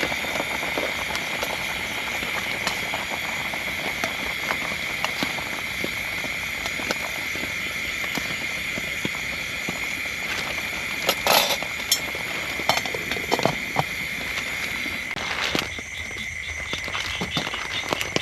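Rain falling with many scattered drop ticks, over a steady high-pitched chorus of frogs calling. A louder cluster of knocks comes about eleven seconds in, and the rain noise thins a few seconds before the end.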